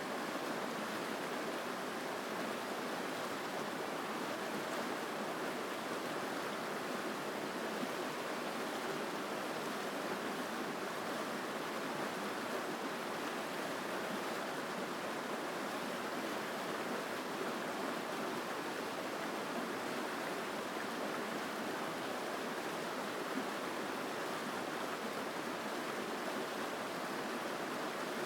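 A mountain stream rushing steadily over rocks, a continuous full, even flow of water.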